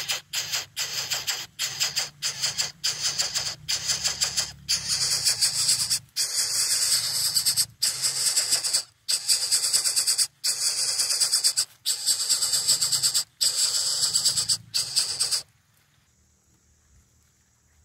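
Coucal chick giving harsh, hissing begging calls for food: quick short rasps at first, then longer runs with brief breaks, stopping abruptly near the end.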